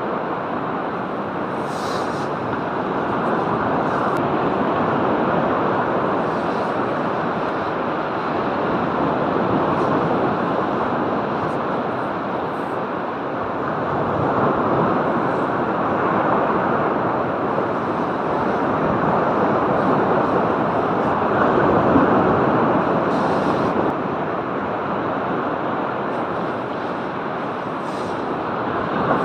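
Surf washing onto a beach: a steady rush of breaking waves that swells and eases every several seconds, with a few faint clicks.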